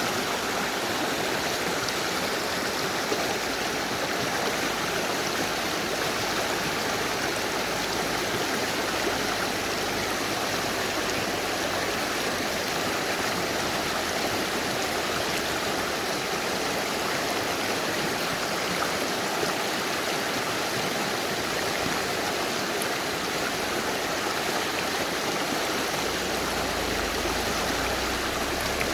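Mountain river flowing: a steady, even rush of running water with no breaks or changes.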